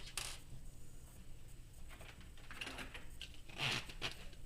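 Handling noises at a workbench: a sharp click just after the start, then scattered short rustles and scrapes of small plastic parts and tools being picked up and moved.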